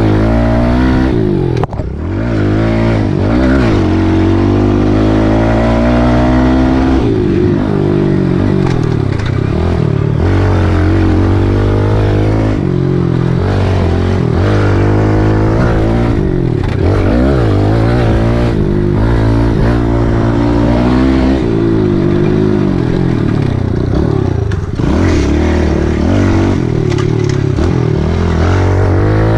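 Kawasaki KLX110L pit bike's small single-cylinder four-stroke engine being ridden, its pitch rising and falling repeatedly as the throttle is opened and closed, with a long climb in revs a few seconds in.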